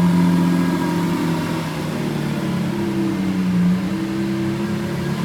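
Mercedes-AMG One hypercar idling, a steady engine hum with slight shifts in pitch.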